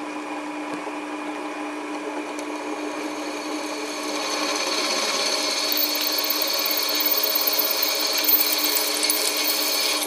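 Drill-sharpening grindstone running at steady speed with an even motor hum. From about four seconds in, a drill bit held in the jig is ground against the stone and a hissing grind builds and grows louder.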